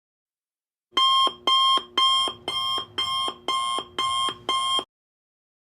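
Alarm clock sound effect: an electronic alarm beeping eight times in an even rhythm, about two beeps a second, starting about a second in and stopping abruptly.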